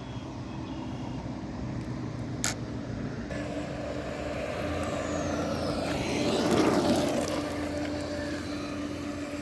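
A radio-controlled model's electric motor running with a steady whine, swelling to its loudest as it comes close about two-thirds of the way in, then easing off. A sharp click sounds about two and a half seconds in.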